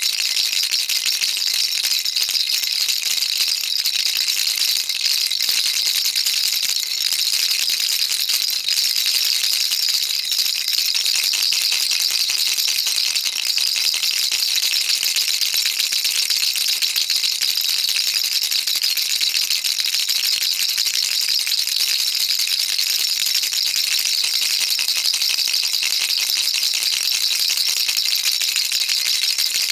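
Baby rattle shaken continuously: a steady, dense patter of small beads clattering inside, bright and high-pitched, with no pauses.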